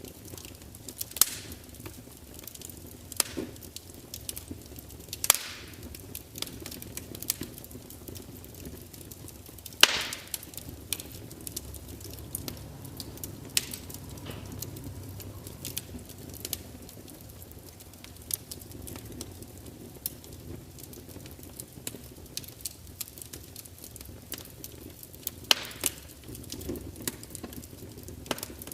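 Wood fire burning in a large open fireplace: logs crackling and spitting with irregular sharp pops, the loudest about ten seconds in, over a low steady rumble of the flames.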